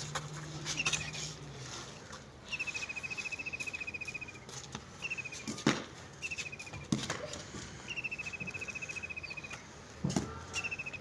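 A songbird repeating a fast, slightly falling trill several times, each trill lasting one to two seconds. Three sharp knocks sound in the second half.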